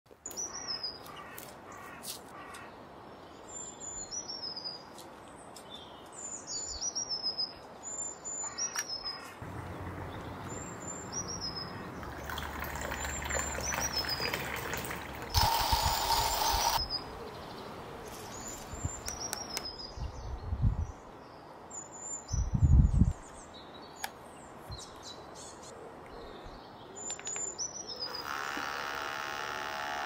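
A bird calling over and over in short, high, falling chirps every second or two. A louder burst of rushing noise comes about halfway, then two low thumps. Near the end a steady whir starts: the pump of an Outin Nano portable espresso machine beginning to brew.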